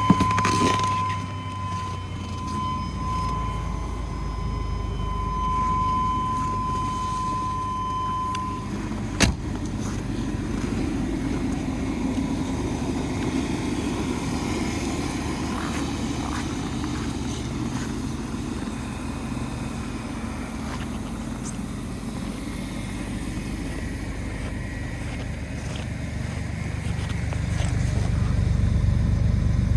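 1996 Chevrolet Astro van's 4.3-litre V6 running steadily just after a cold start at −25 °C. A steady high tone sounds over it for about the first eight seconds, and a single sharp knock comes about nine seconds in. The engine grows louder near the end.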